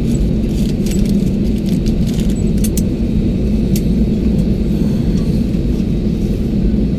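Steady low cabin rumble of an airliner taxiing after landing, with scattered light clicks and rattles over it.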